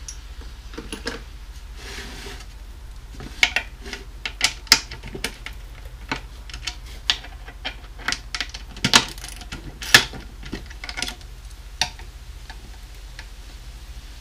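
Irregular metal clicks and clinks from the lug screws and hardware of a 1980 Gretsch rack tom being worked loose with a hand wrench, a few sharper knocks among them, over a steady low hum.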